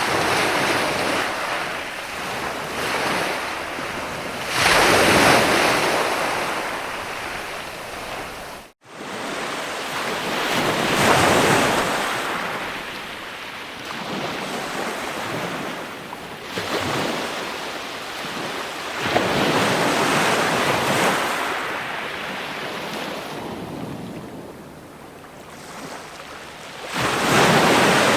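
Ocean surf: waves breaking and washing back in slow swells, one every several seconds. The sound cuts out for an instant about nine seconds in.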